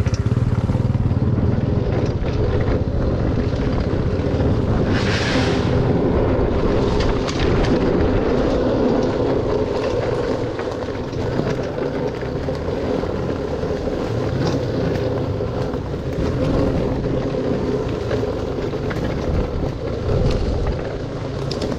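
Dirt bike engine running steadily as the bike rides along, with a brief hiss about five seconds in.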